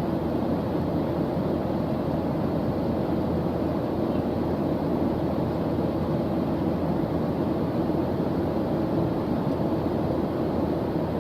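Steady white-noise background track: an even rushing noise, heavier in the low and middle range than in the highs, with no changes.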